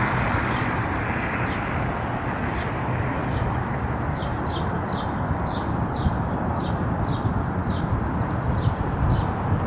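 Steady low outdoor rumble of wind and airport background noise. Over it, a bird calls repeatedly in short falling chirps, about two a second, from a little after the start.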